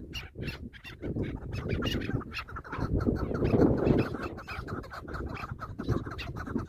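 Chukar partridges calling: rapid, repeated short clucking notes over a low noisy background.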